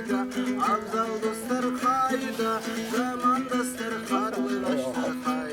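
A plucked string instrument plays an instrumental passage alone: a quick picked melody over a steady drone note.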